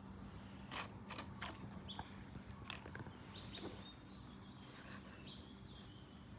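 A few irregular sharp clicks and rattles of something being handled, with birds chirping faintly in the background.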